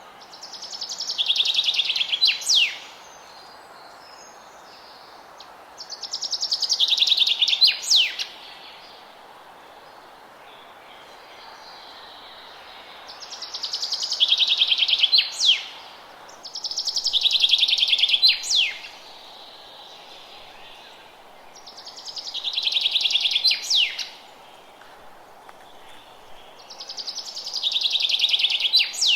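A songbird repeating the same song about six times, every few seconds. Each song is a rapid high trill that swells over about two seconds and ends in a couple of sharp downward notes, over a steady faint hiss of background noise.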